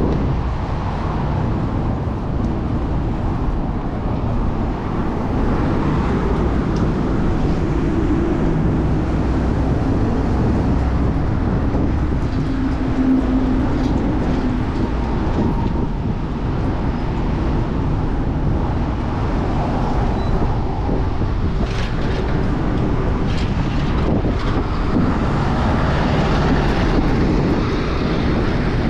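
Steady rush of wind on the microphone of a moving bicycle, mixed with city traffic passing close by; a vehicle engine hums briefly in the middle.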